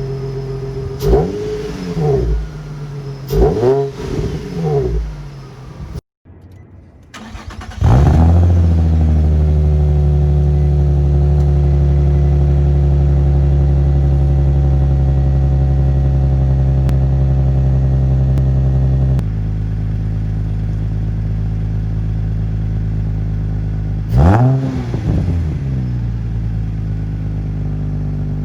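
Infiniti G35's 3.5-litre VQ V6 running through an aftermarket single exhaust: several quick throttle blips over idle, then, after a short break, a flare and a long steady fast idle that steps down to a lower idle, followed by two more rev blips.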